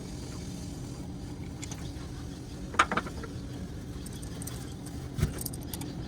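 A few sharp metallic clinks of hand tools on engine parts: two close together about three seconds in and a small cluster just after five seconds. They come over a steady low hum.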